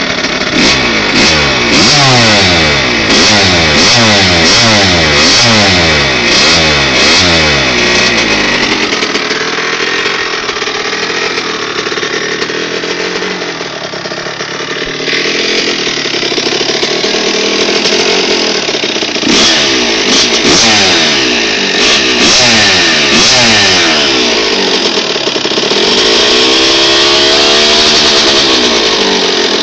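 Kawasaki KX100 two-stroke dirt bike engine, fitted with an FMF Gold Series pipe and Powercore 2 silencer, being revved in quick repeated blips for the first several seconds, running more steadily for a stretch, then blipped again, with one longer rev near the end.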